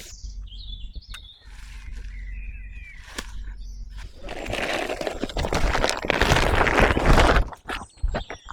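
A few faint bird chirps, then about three seconds of loud rustling and crunching that stops abruptly near the end.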